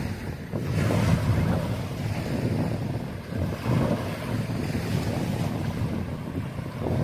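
Wind buffeting the microphone in uneven gusts, over the wash of surf on a beach.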